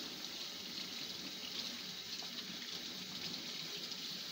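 Kitchen tap running steadily into the sink while a hand is rinsed under it. The water stops shortly after the end.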